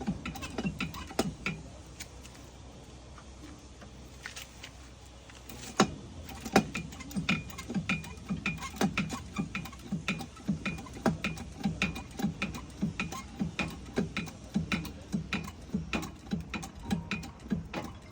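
Ratcheting pulling tool clicking repeatedly as a car body panel is drawn out, about two to three clicks a second. It pauses for a few seconds near the start.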